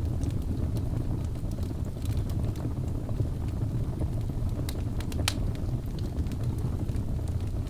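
Wood fire burning in a fireplace: a steady low rumble of flames with scattered crackles and pops from the logs, the sharpest pop about five seconds in.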